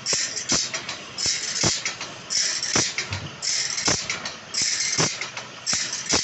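Repeated rasping strokes of metal cutting, about one a second, with sharp clicks between them.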